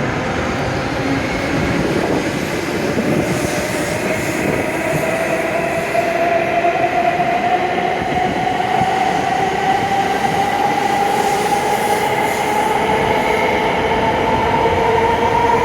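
W7 series Shinkansen train pulling out, its traction motors giving a whine that rises slowly in pitch as it gathers speed, over steady rolling noise.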